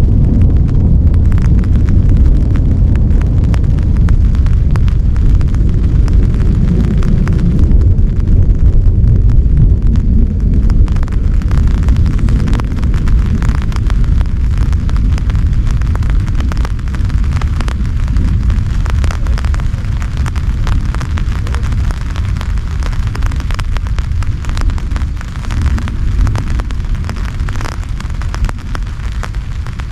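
Heavy rain with a long, deep rumble of rolling thunder that slowly fades over the last third, while raindrops crackle throughout.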